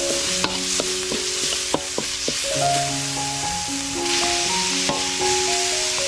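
Food sizzling and frying in a pan while being stirred, with sharp clicks of a utensil striking the pan several times in the first half.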